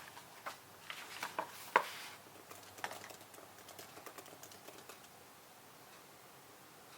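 Typing on a computer keyboard: an irregular run of key clicks, the loudest a little under two seconds in, stopping about five seconds in.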